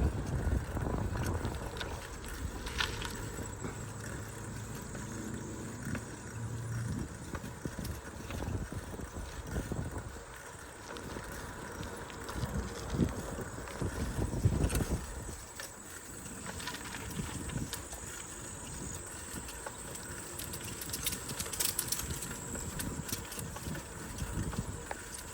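Bicycle rolling along a road: an uneven low rumble from the ride, with scattered clicks and rattles from the bike.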